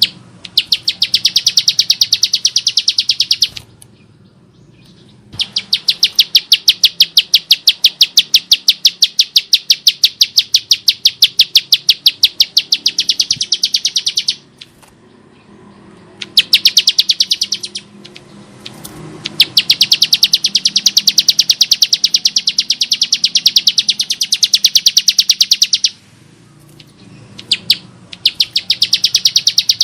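Bar-winged prinia (ciblek sawah) giving its harsh, rapid rattling song: long trains of fast, evenly repeated high notes in bouts of a few seconds, broken by short pauses.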